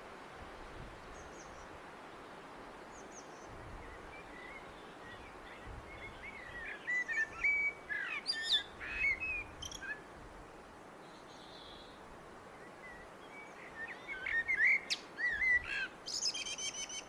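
Blackbird singing: two phrases of warbling, bending notes, the second starting about halfway through, each ending in higher, thinner notes, over a steady faint background hiss.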